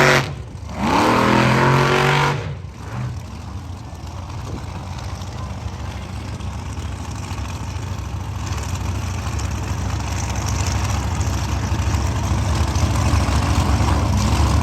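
A motor vehicle engine revving hard twice in the first couple of seconds, then running with a steady low rumble that grows slowly louder.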